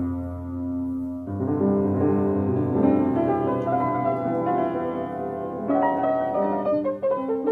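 Piano music: a slow run of sustained notes and chords, with new chords struck about a second in and again near six seconds.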